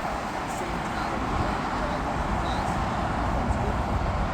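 Steady rumbling vehicle noise, an even roar without a clear pitch.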